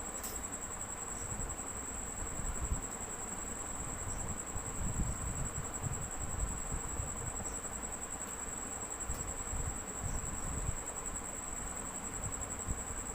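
Steady, unbroken high-pitched insect trill over a constant hiss and a low rumble.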